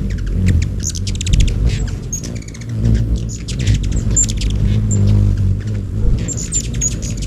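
Hummingbirds swarming a feeder: rapid high chittering chips and short squeaky calls over a steady low hum of wings.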